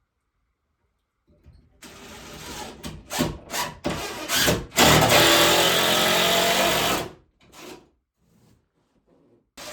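Power drill run in several short trigger pulses, then held for about two seconds and let off, with two quick blips after; the pattern of driving a screw home.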